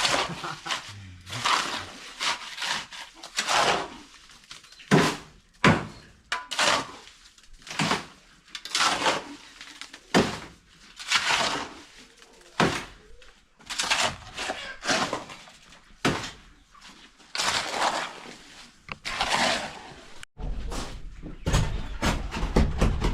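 A tool scraping through wet cement in repeated strokes, about one a second, as the coop is plastered. A low rumble comes in near the end.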